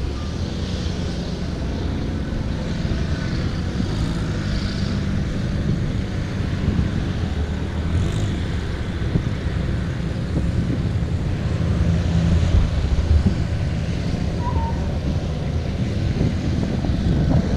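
Car engines running, a steady low rumble that swells slightly about two-thirds of the way through.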